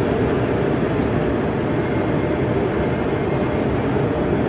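Steady, even background noise of a large exhibition hall, a dense low rumble with no break or change.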